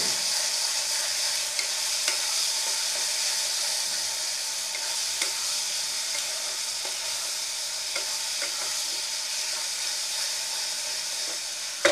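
Potato, tomato and onion-paste masala sizzling in oil in a kadai while a spatula stirs and scrapes it continuously, with a few light clicks of the spatula against the pan. The masala is being fried down (kosha).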